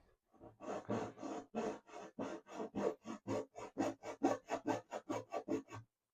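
Hand hacksaw cutting through a melamine-faced board, a steady series of back-and-forth rasping strokes, about three a second and getting quicker toward the end, stopping briefly before one more stroke.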